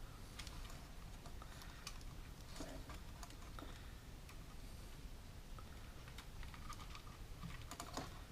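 Faint, irregular small clicks and taps of hands handling wires and tools at a workbench, over a low steady hum.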